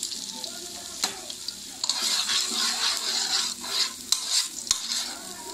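Chopped ginger sizzling in hot oil in a non-stick wok while a utensil stirs and scrapes it around the pan. The sizzle grows louder about two seconds in, with short scraping strokes throughout.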